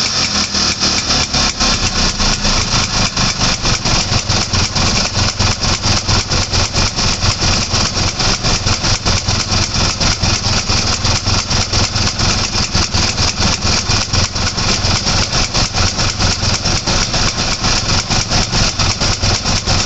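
Daihatsu Midget MP4's single-cylinder two-stroke engine idling steadily with an even, rapid pulse, running on after the repair of its stalling problem.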